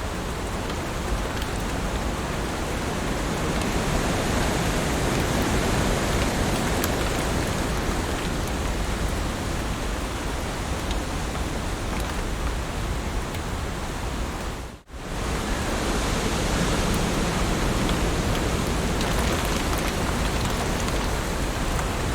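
Steady heavy rain, a dense even hiss with faint individual drop ticks. About two-thirds of the way through, the sound drops out sharply for a moment and then returns.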